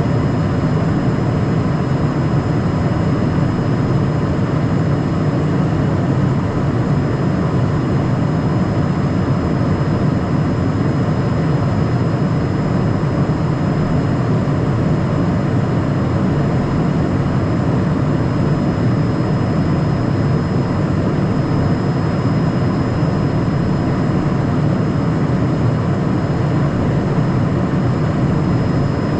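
Steady in-flight cockpit noise of a Cessna Citation Mustang light jet: an even rush of airflow and its twin turbofan engines, heaviest in the low range, with a faint steady high tone above it.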